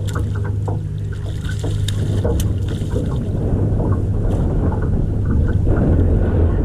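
Boat motor running with a steady low hum, under the rush of moving water; the sound swells slightly toward the end.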